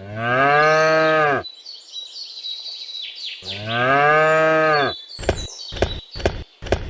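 A cow mooing twice, each a long call that rises and falls in pitch. Faint high chirps sound between the moos, and a quick run of about five short, sharp sounds follows near the end.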